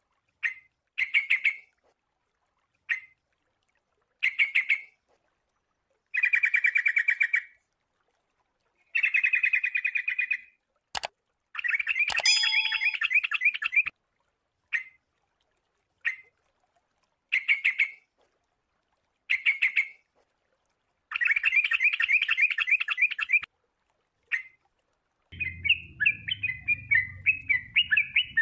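Sooty-headed bulbul (kutilang) calling in short bursts of rapid chattering notes, separated by pauses of a second or so; a sharp click about eleven seconds in, and near the end the notes run on without a break over a low hum. This is the kind of call recording played to lure kutilang or to prompt a caged bird into song.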